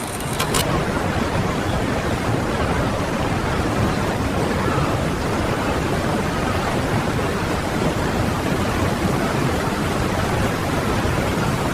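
A loud, steady rushing noise that holds evenly throughout.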